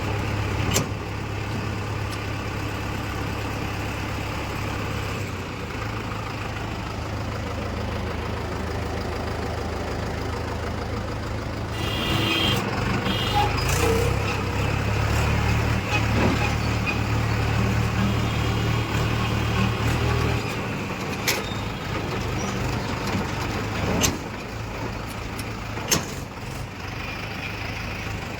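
Diesel engine of a tractor or backhoe running steadily, louder for several seconds past the middle, with a few short sharp knocks.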